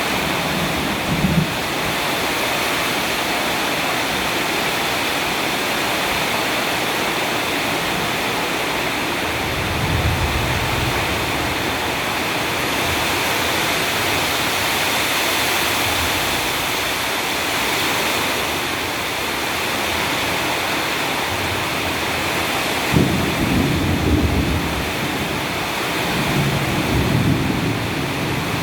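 Heavy rain pouring steadily, with a few low rumbles rising through it, the strongest about two-thirds of the way in.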